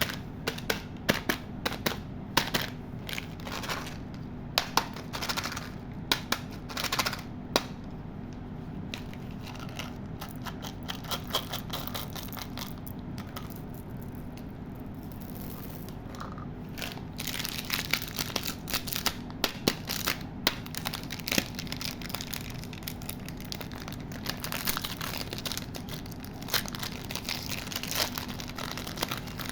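Plastic candy wrappers and packaging being handled and torn open: crinkling and crackling with sharp clicks and taps, busiest a little past the middle, over a faint steady low hum.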